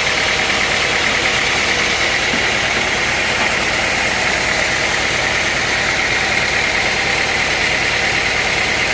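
Sawmill machinery running steadily: an even engine drone with a constant high whine over it, unchanging throughout.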